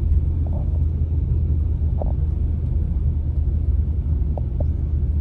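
A truck's engine and tyres rumbling steadily on a snowy road, heard from inside the cab, with a few faint ticks.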